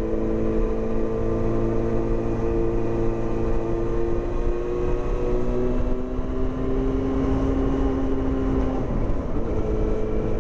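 Yamaha FZ6 600cc inline-four engine running at about 2,000–3,000 rpm through a loud homemade aftermarket exhaust with its baffle in. The note holds steady, rises a little about halfway, and dips briefly near the end before settling back.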